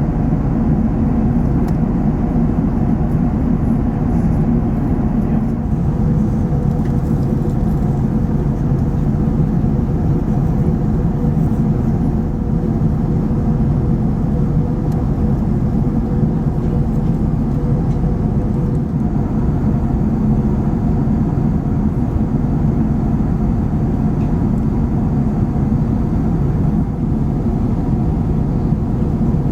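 Steady cabin noise inside a four-engined Airbus A380: an even drone of engines and rushing air with a low hum running through it, unchanging throughout.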